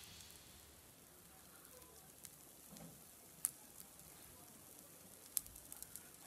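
Faint sizzling of an egg omelette cooking in a nonstick frying pan, with a few small sharp pops and crackles scattered through it.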